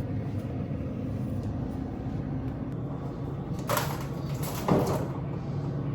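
Food and containers being pulled out of a home freezer: two brief rustling, clattering handling noises a little past halfway, over a steady low hum.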